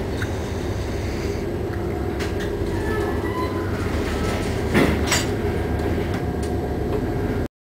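A ship working through heavy storm seas: a steady low rumble with scattered knocks and rattles, and one louder clatter about five seconds in. The sound cuts off abruptly near the end.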